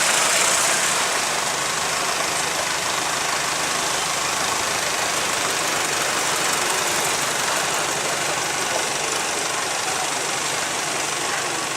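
Boat engine running steadily, a dense even mechanical drone.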